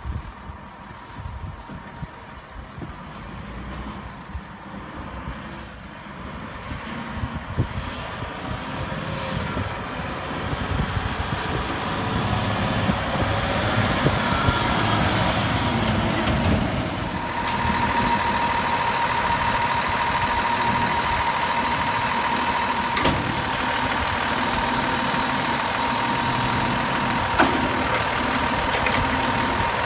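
A 2007 Peterbilt 320 garbage truck's Cummins ISM diesel running, getting louder through the first half. About two-thirds of the way in, a steady high-pitched tone becomes prominent over the engine.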